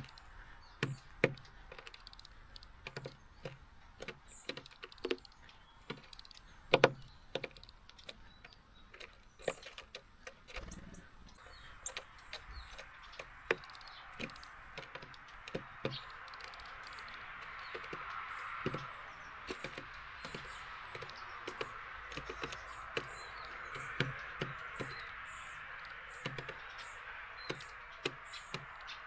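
Irregular sharp taps and knocks of small birds at a seed feeder close to the microphone, pecking and handling seeds and hopping on the feeder, with faint high chirps. From about twelve seconds in a soft steady hiss of rain comes up under them.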